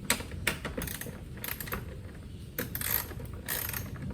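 Irregular sharp metallic clicks and short rattles of hand-tool work on a car.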